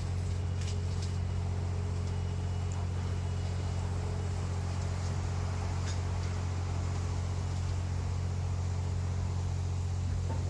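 Steady low hum of a DD51 diesel locomotive idling with the train standing before departure, with a few faint clicks.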